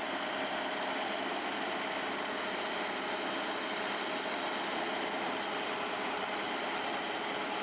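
Footpath street-cleaning machine running steadily as it scrubs the pavement with spinning brushes and hot water: a constant engine hum under an even hiss.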